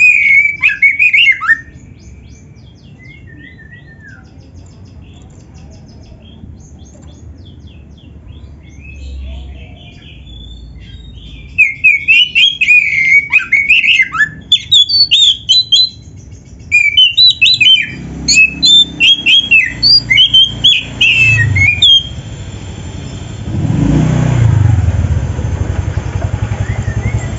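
Oriental magpie-robin singing in bursts of quick, varied chirps and whistles, a song full of phrases copied from other birds. In the second half a passing vehicle's low rumble builds up and is loudest near the end.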